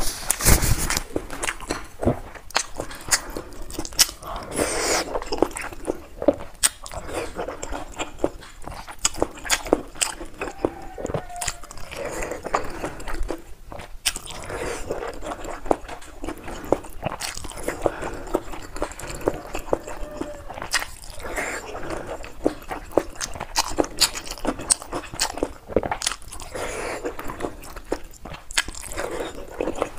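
Close-miked eating: a person chewing soft wontons in chili broth, with wet mouth smacks and many quick clicks, over and over.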